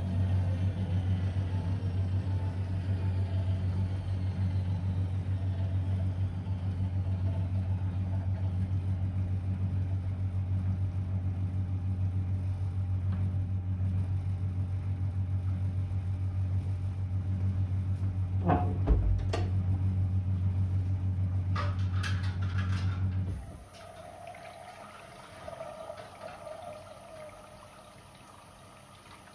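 Blomberg WA391 washing machine mid-programme: a motor hums steadily, like a drain pump, while a faint whine falls in the first few seconds as the drum slows. The hum cuts off about three-quarters of the way through after a few clicks, leaving a quiet hiss of water.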